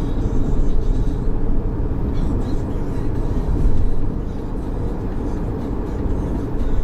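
Steady low rumble of car noise with no distinct knocks or clicks, typical of a car interior while driving.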